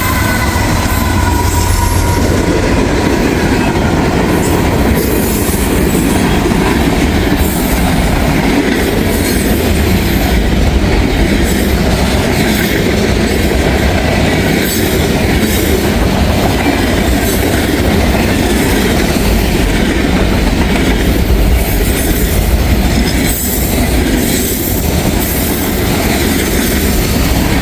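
Freight train cars rolling past close by, a steady rumble with wheels clicking over the rail joints. A high wheel squeal fades out in the first two seconds.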